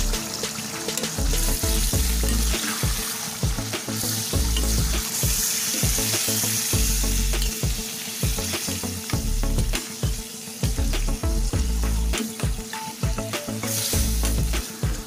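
Pork pieces sizzling in a stainless steel pan as a metal utensil stirs them, with repeated scrapes, clicks and knocks against the pan.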